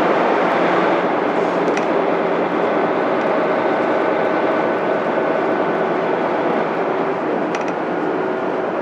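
Mitsubishi Fuso Aerostar city bus under way, heard from inside: its 12.9-litre 6M70 inline-six diesel running steadily under road noise, with a couple of light rattling clicks.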